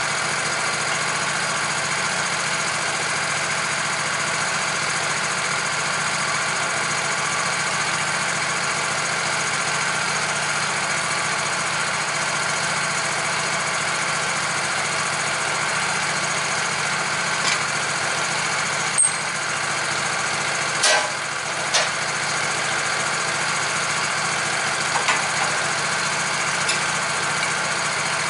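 A motor running steadily with an even hum, with a few sharp clicks or knocks over it about two-thirds of the way through and again near the end.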